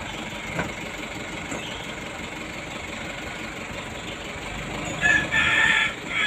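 A steady background of an idling vehicle engine, then about five seconds in a rooster crowing loudly for about a second, with a shorter call again at the very end.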